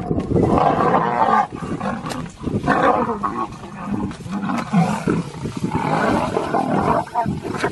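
Male lions roaring during a fight, loud and ragged, with brief lulls about one and a half and two and a half seconds in.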